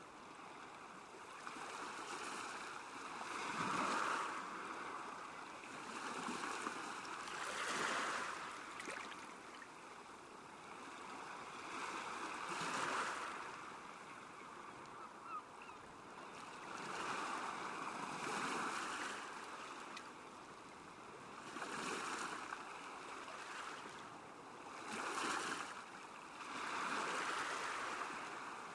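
Small waves lapping on a lakeshore, each washing in and falling back in slow swells every three to five seconds.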